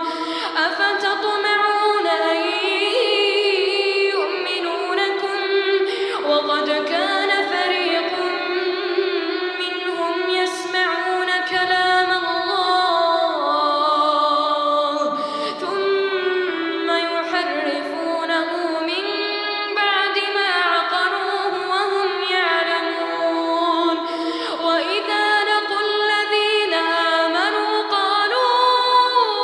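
A child's high voice reciting the Quran in a slow, melodic chanted style, holding long notes with gliding ornaments between pitches.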